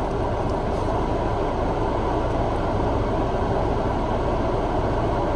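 Steady low hum of a car running while parked, heard from inside the cabin, even and unchanging throughout.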